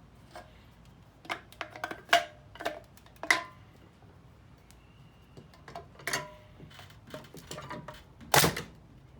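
Metal parts being handled: a series of irregular clinks and knocks, some ringing briefly, with a heavier knock near the end.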